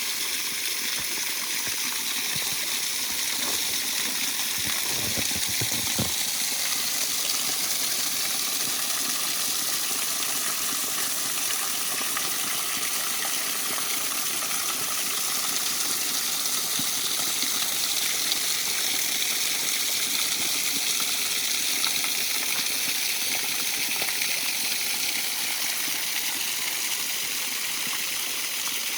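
Water pouring down a partly frozen waterfall: a steady, unbroken rush.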